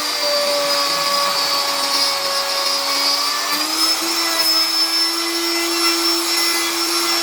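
Handheld electric wood router running steadily, its motor pitch dipping slightly under load for the first few seconds as the bit cuts into the wood, then recovering to full speed about four seconds in.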